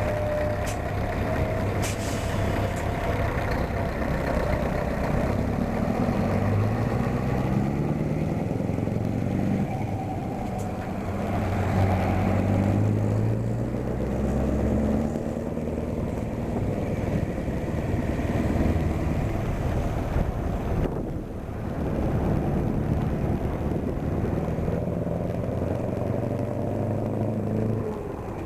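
Scania 164 480 truck's V8 diesel pulling away under load, its pitch climbing and dropping back several times as it shifts up through the gears. A short sharp hiss of air is heard near the start.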